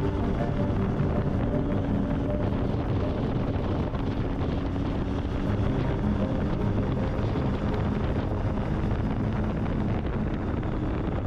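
Triumph Tiger 800 three-cylinder motorcycle engine running at steady road speed, mixed with wind buffeting the microphone.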